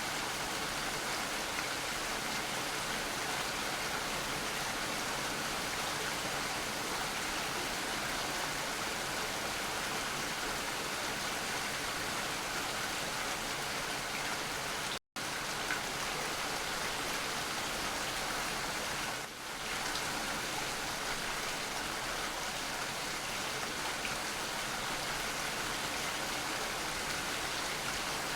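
Steady rain falling, an even hiss of many drops. It cuts out completely for an instant about halfway through, then carries on unchanged.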